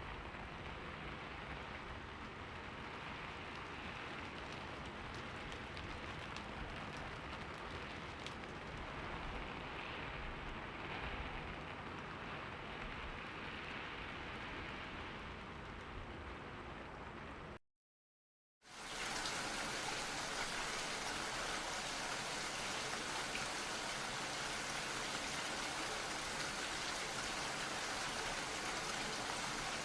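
Steady rainfall, a dense even hiss with fine patter of drops. About two-thirds of the way in it cuts out completely for about a second, then a brighter, slightly louder and more uniform rain sound starts.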